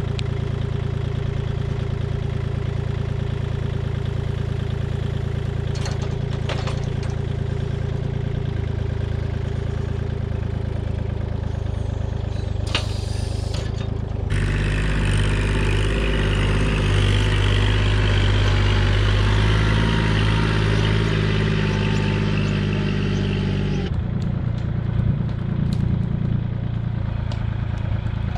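Kubota compact tractor's diesel engine running steadily, with a few sharp knocks. About halfway through, the engine grows louder and harsher for some ten seconds, then settles back.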